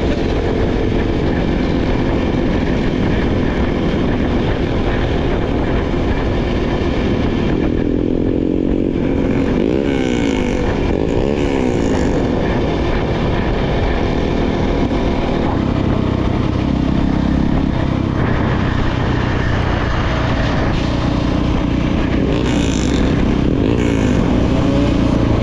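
Dirt bike engine running while riding, its pitch repeatedly rising and falling as it revs up and eases off, with the clearest swings about a third of the way in and again near the end.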